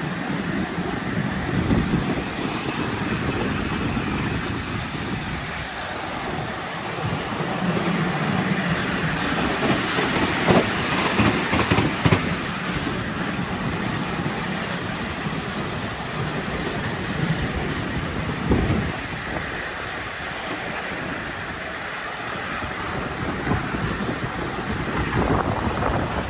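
Miniature ride-on railway train running on its track: a steady rumble of wheels and rails, with a run of sharp clicks about ten to twelve seconds in and a single knock near eighteen seconds.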